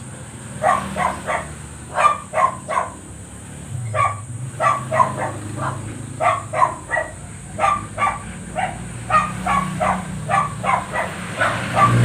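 A dog barking over and over in quick runs of short, sharp barks, a few a second. A low hum sits underneath.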